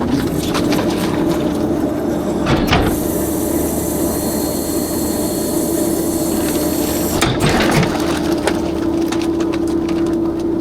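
Rear-loader garbage truck's hydraulic system running, with a steady whine that rises at the start and then holds. A hiss runs through the middle, with a knock near the start of it and another as it stops.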